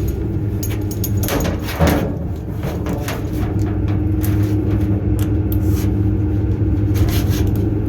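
A motor running steadily with a low, even hum, with scattered knocks and scrapes over it.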